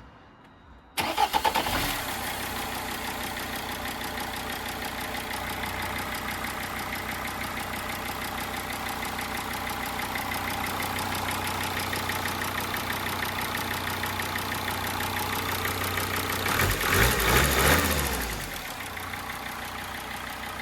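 Mercedes 270 CDI inline-five common-rail diesel cranking and catching about a second in on its first start, then idling steadily with diesel clatter. Near the end it runs louder for about two seconds before settling back to idle.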